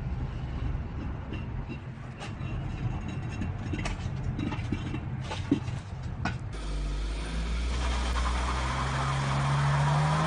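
Vehicle engine rumbling with scattered clicks and knocks. After a cut about six and a half seconds in, a louder engine runs and rises in pitch as it revs near the end.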